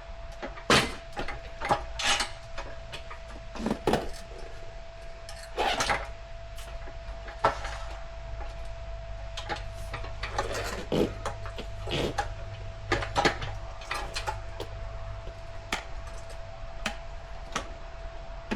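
Tire irons clicking, knocking and scraping against a dirt bike wheel rim as the tire bead is levered on by hand, in irregular single knocks a second or so apart. A faint steady tone runs underneath.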